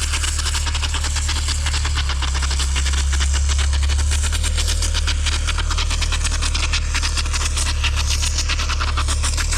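A heavy engine of construction machinery running steadily, with a deep hum and a fast clatter. It grows slightly louder and deeper for a couple of seconds about two seconds in.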